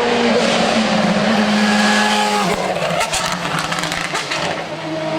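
Race car engine running hard at high revs on a hill climb, its pitch stepping at gear changes. After a shift about two and a half seconds in, the level eases and there is a run of sharp crackles from the exhaust.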